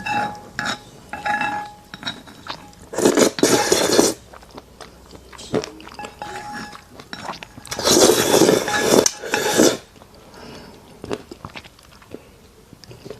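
Close-miked eating sounds: a person chewing, with utensils clinking against dishes. Two louder noisy bursts of about a second each come in the middle and later on.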